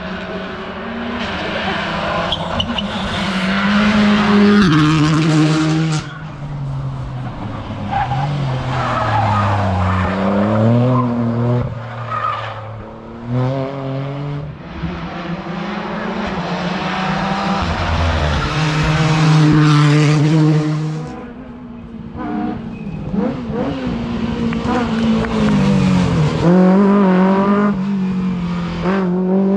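Modern rally cars at full attack: engines revving high and dropping again and again through quick gear changes, with tyre squeal. The sound changes abruptly about six and twenty-one seconds in, from one car's pass to the next.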